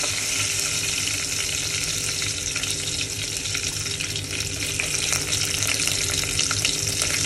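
Tadka sizzling steadily: garlic, curry leaves, mustard and cumin seeds frying in hot ghee, with small crackles through the hiss.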